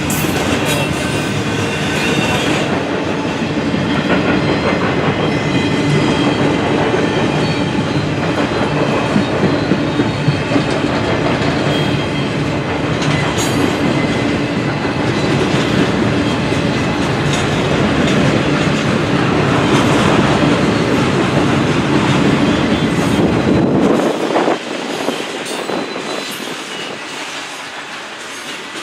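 Freight train rolling past at close range, cars clacking over the rail joints with some wheel squeal and a few sharp knocks. About 24 seconds in, the low rumble cuts off abruptly and the sound fades.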